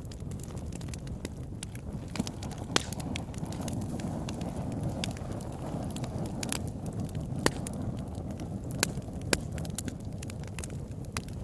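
Campfire crackling: a steady low rush of burning wood with frequent sharp pops and snaps, a handful of them louder than the rest.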